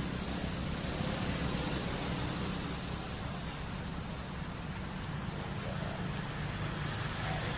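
A steady low motor hum with a constant thin high-pitched whine above it.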